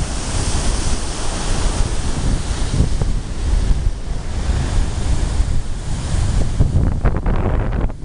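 Baltic Sea surf breaking and washing on the shore, the hiss of the water swelling and easing several times, with wind buffeting the microphone as a steady low rumble.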